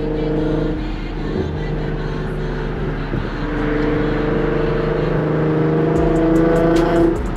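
Infiniti Q50 V6 running through an aftermarket exhaust while driving. The engine note holds steady, climbs slowly as the car pulls for a few seconds, then falls sharply near the end as the throttle is lifted.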